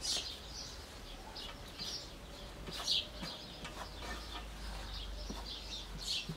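Small birds chirping over and over in short, high calls, with a few faint clinks of a spoon in a metal pan.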